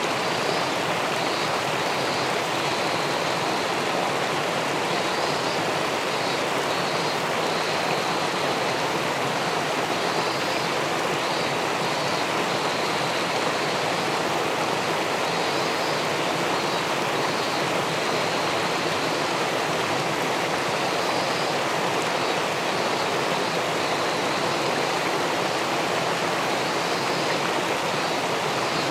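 River water pouring over a weir and rushing into the pool below: a steady, unbroken wash of running water.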